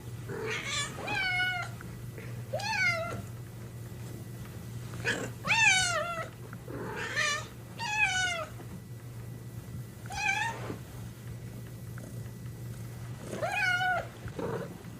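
A cat meowing over and over, about ten meows, each rising and then falling in pitch, over a steady low hum.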